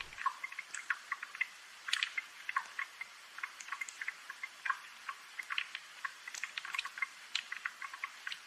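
Rain dripping in an irregular patter of small, light ticks and taps, several a second and unevenly spaced, with a soft hiss underneath and no low rumble.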